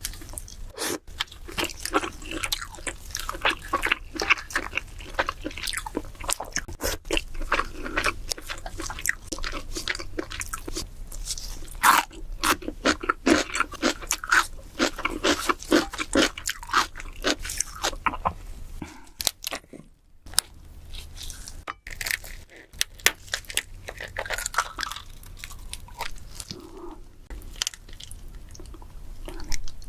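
Close-miked eating of king crab: biting and chewing with many irregular sharp crunches and cracks, pausing briefly about two-thirds of the way through.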